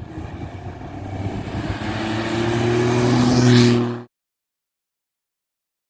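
Rally car engine running hard on the stage, growing steadily louder over about four seconds as the car approaches at a steady pitch, then cut off abruptly.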